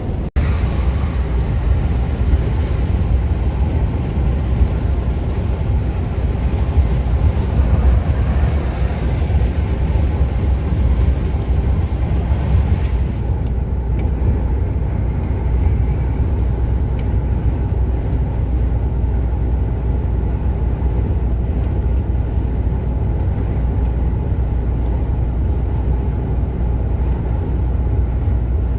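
Mercedes-Benz Actros truck driving at steady highway speed: a constant low engine drone with road and tyre noise. About halfway through, the high hiss in the noise drops away.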